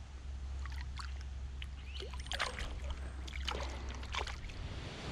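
Water splashing and trickling beside a kayak in a few short splashes and drips over a steady low rumble.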